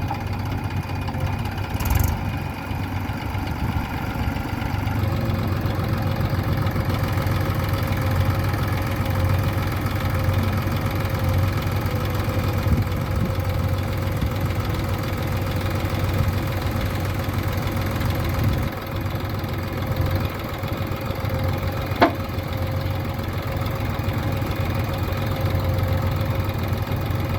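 Tractor diesel engine running steadily, with a deep low rumble. A short sharp click is heard about two seconds in and again near twenty-two seconds.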